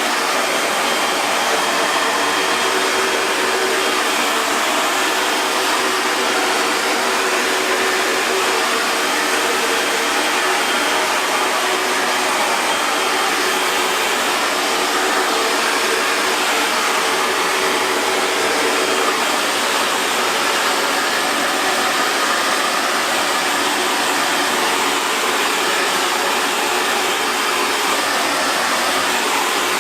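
Hair dryer running steadily, a continuous airy rush of fan and motor noise with a faint low hum.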